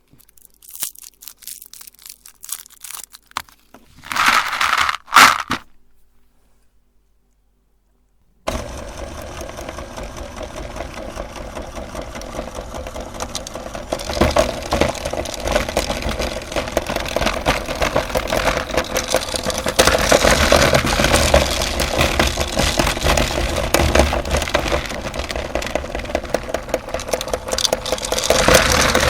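Scattered clicks and a short loud crunch, then a brief cut to silence, after which an electric meat grinder runs steadily: a low motor hum under dense crackling as it crushes candy.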